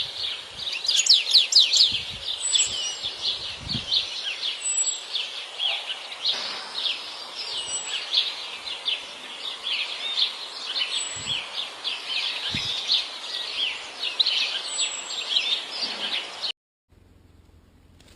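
European goldfinch singing a fast, continuous twittering song of rapid high chirps, which cuts off abruptly near the end.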